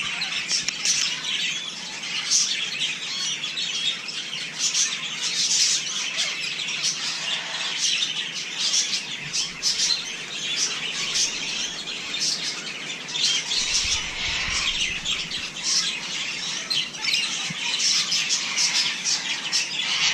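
A flock of parrots chattering and squawking: a dense, unbroken stream of short, high-pitched calls.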